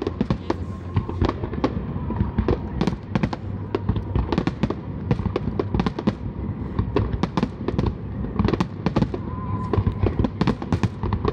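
Fireworks display: a dense, unbroken run of bangs and crackles from bursting shells, several a second.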